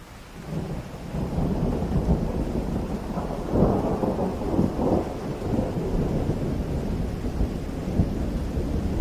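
Thunder rolling in over steady rain: a low rumble swells up about half a second in and crackles loudest around the middle, then keeps rumbling.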